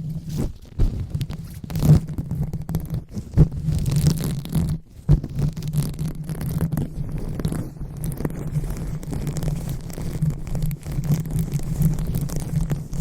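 Hands rubbing and massaging right on a microphone for ASMR 'brain massage', a muffled, low rumbling scratch that swells and falls unevenly, with a few sharper taps in the first five seconds.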